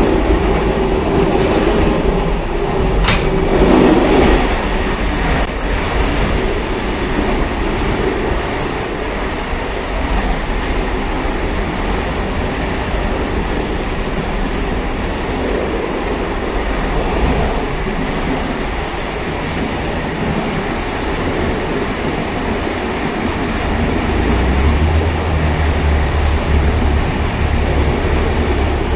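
Steady running noise of a railcar in motion, a continuous rumble with rattling. There is a sharp click about three seconds in, and the low rumble grows heavier near the end.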